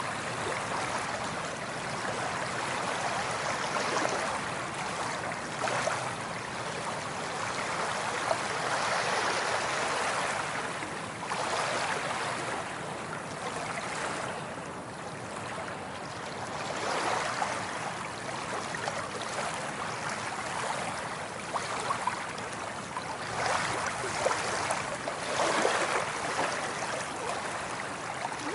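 Sea waves washing onto a shore, the wash swelling and easing in irregular surges every few seconds with a fine fizzing crackle.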